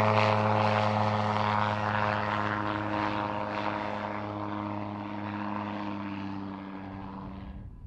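Light propeller aircraft's piston engine running at a steady pitch, fading gradually. The sound stops abruptly near the end.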